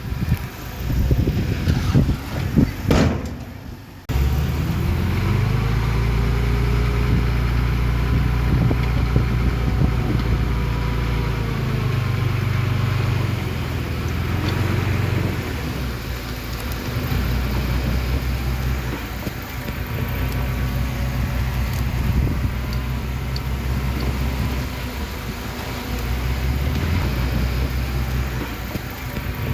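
Heavy diesel earthmoving machinery running, a steady low engine drone whose level rises and falls with load. The first few seconds hold irregular rumbling noise before an abrupt change to the steady engine sound.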